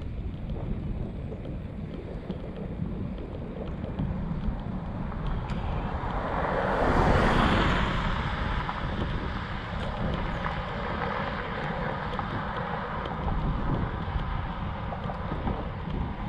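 Wind buffeting the microphone during a bicycle ride, a steady low rumble. About seven seconds in, a louder rushing swell builds and fades.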